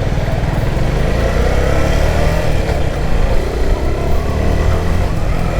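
Motorcycle engine running steadily while riding, with a constant rush of wind and road noise over the microphone.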